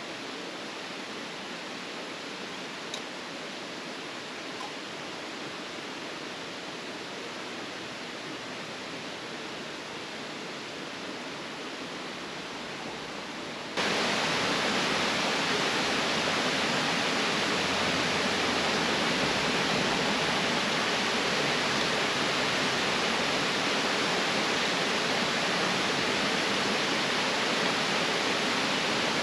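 Steady rushing noise with no distinct events, jumping abruptly to a louder level about halfway through.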